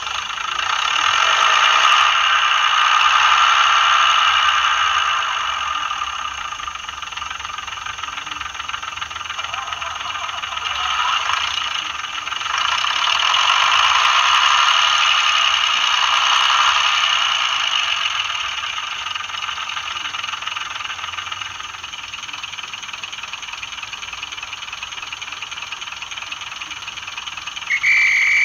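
Sound decoder in an OO gauge Bachmann class 108 diesel multiple unit model playing recorded diesel engine sound through its small speaker, with no bass. The engine sound swells twice as it revs up under power and settles to a steadier run in between. A brief steady high tone starts just at the end.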